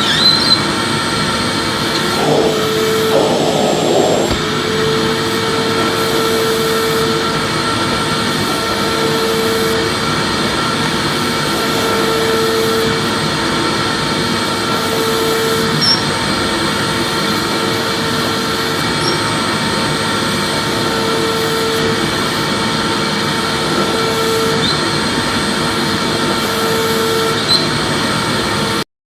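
Vacuum cleaner running steadily, a dense whooshing motor noise with a humming tone that swells and fades about every two and a half seconds. It cuts off suddenly near the end.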